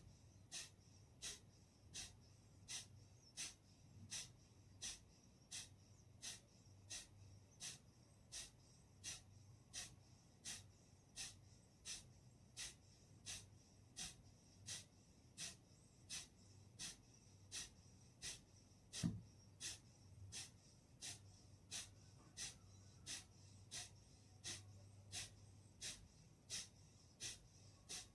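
Kapalbhati breathing: short, forceful exhalations through the nose at a steady pace of a little over one a second, each a brief hiss. About two-thirds of the way through there is a single low thump, the loudest sound.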